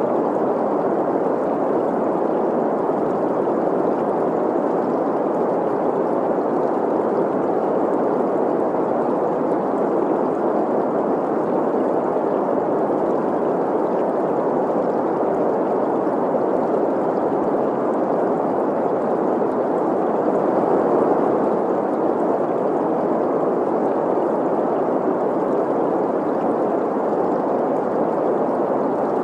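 Steady green noise, an even hiss centred in the middle range, blended with the sound of a flowing stream.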